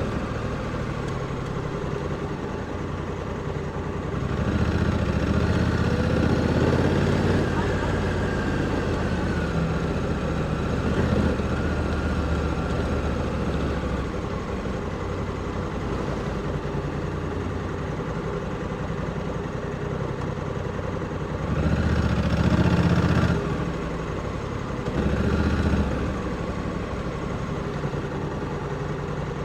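Onboard sound of a Honda Africa Twin 1100's parallel-twin engine at low speed on light throttle, with louder bursts of throttle about four seconds in, near the twenty-two-second mark and again briefly a few seconds later.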